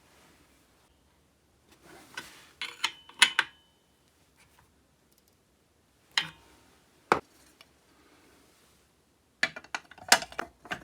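Metal parts and hand tools being handled and fitted during chainsaw reassembly: scattered sharp clicks and clinks, some briefly ringing. There is a cluster about two to three and a half seconds in, single clicks around six and seven seconds, and another cluster near the end.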